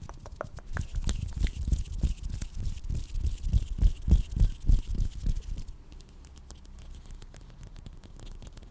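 Close-miked hands rubbing and patting against each other in ASMR hand sounds: dense crackly clicks over low thumping strokes. A little before six seconds in the strokes stop, leaving lighter, quieter clicking.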